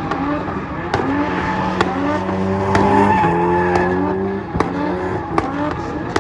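BMW F80 M3's twin-turbo inline-six running loudly. The engine note holds steady and drops in pitch a couple of times, with sharp cracks every second or so.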